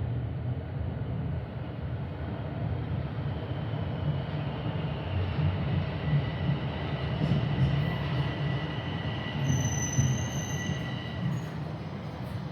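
Light rail train running on its rails with a steady low rumble. A high wheel squeal comes in about three seconds in and fades near the end, with a shriller whistle joining briefly around ten seconds.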